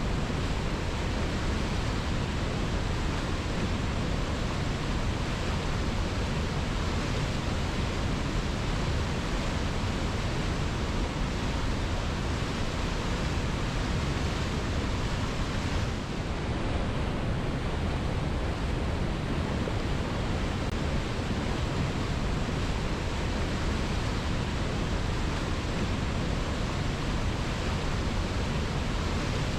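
Waterfall: water pouring steadily onto rock, a constant even rush with no breaks, dipping slightly for a moment about halfway through.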